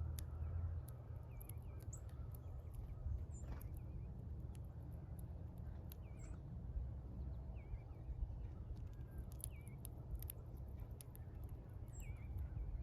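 Small birds chirping at a feeder: short, hooked chirps repeated every second or so, mixed with sharp clicks, over a steady low rumble.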